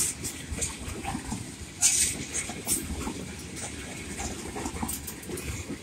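Freight train tank cars rolling past close by: a steady rumble of wheels on the rails, broken by irregular sharp, high-pitched squeals and clicks, the loudest about two seconds in.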